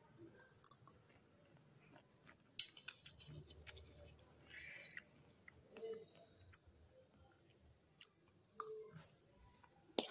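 Faint close-up chewing of pomegranate arils and fruit pieces, with scattered short clicks of a steel spoon against a steel plate. The loudest click comes near the end.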